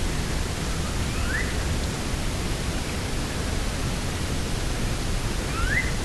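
Steady rush of coastal wind and sea, with a bird giving a short rising call twice, once about a second in and once near the end.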